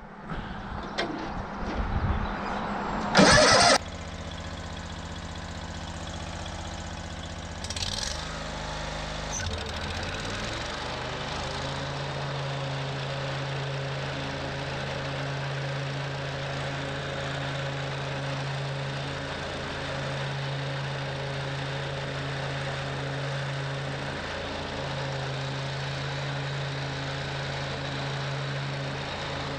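Toro Grand Stand stand-on mower's engine starting: a short loud burst about three seconds in, then the engine catches and runs. Its sound shifts about eight and again about twelve seconds in, then settles into steady running.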